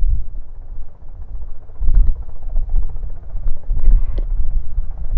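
Robinson R44 Clipper II helicopter running, its engine and rotor sound mixed with heavy gusty wind rumble on the microphone.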